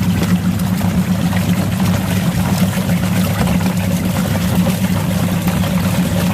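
Washing machine running, its motor giving a steady low hum while toy tools clatter with small rapid clicks as they tumble in the turning drum with water.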